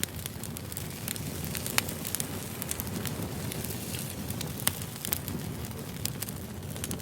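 Firewood burning with irregular crackles and pops over a low, steady rumble. Two louder pops come about two and five seconds in.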